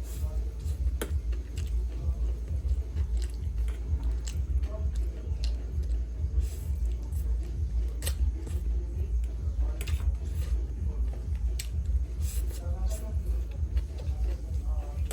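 A person chewing and biting food up close, with irregular wet mouth clicks, over a steady low hum.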